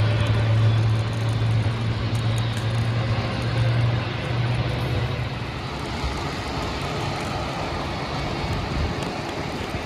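Steady noise inside a Boeing 737 MAX airliner cabin: an even rush of air with a low hum that fades about halfway through.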